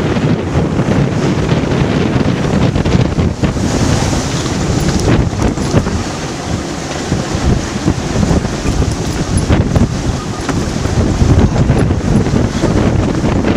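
Strong wind buffeting the microphone aboard a sailboat in 23 to 25 knots of wind, over a steady rush of waves and water past the hull, with a brighter hiss of water about four seconds in.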